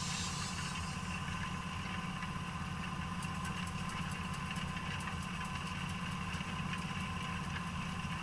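John Deere 8245R tractor's diesel engine running steadily, with a constant high whine above the engine note and faint clicks from about three seconds in.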